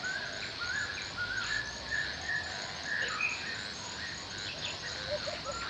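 Forest ambience: several birds singing in overlapping short phrases, some rising in pitch, over a steady hiss, with a high chirp repeating evenly about three times a second.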